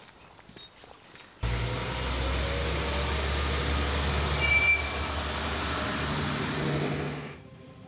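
Regional passenger train passing close by at a level crossing: a steady rumble and rush of wheels on the rails, with a thin high whine over it. It starts suddenly about a second and a half in and cuts off shortly before the end.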